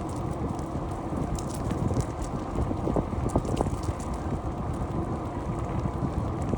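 Wind buffeting the microphone and tyre noise from a moving bicycle, with a constant run of small rattles and clicks as it rides over the surface.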